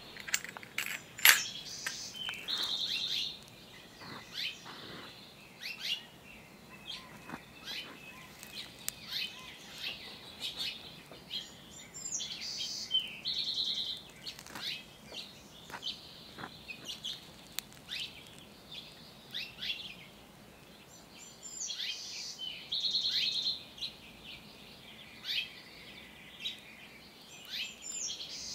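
Outdoor birdsong: birds chirping throughout, with one bird repeating a short phrase that ends in a fast trill, heard about four times.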